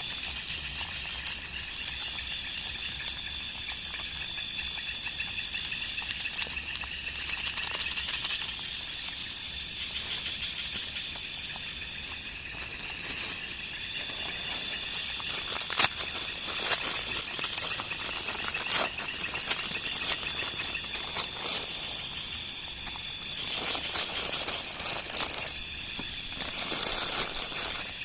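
Night insects trilling in a steady high chorus, one loud trill stopping and restarting every few seconds, with scattered clicks and knocks over it.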